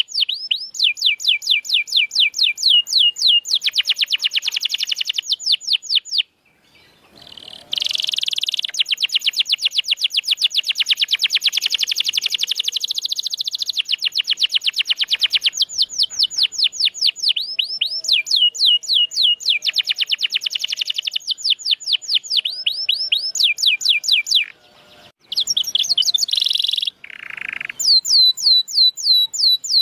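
Domestic canary singing long rolling trills of rapidly repeated, high, downward-sweeping notes, phrase after phrase, broken by two brief pauses.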